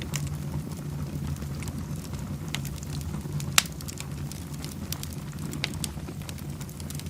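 Wood fire in a fireplace crackling with scattered sharp pops, the loudest about three and a half seconds in, over a steady low rumble.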